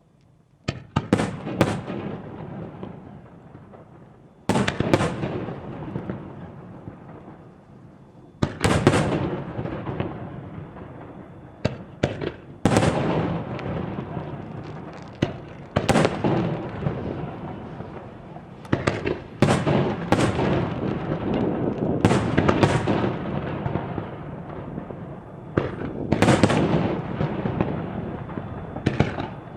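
Aerial fireworks shells bursting in a fast, irregular series, a sharp bang every one to four seconds, each trailing off in a long rolling rumble of echo. The first bang comes about a second in.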